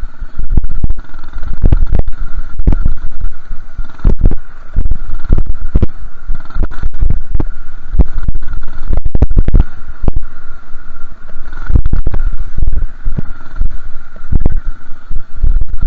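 Minibike being ridden, its small engine running with a steady high tone under heavy, irregular wind buffeting on the microphone.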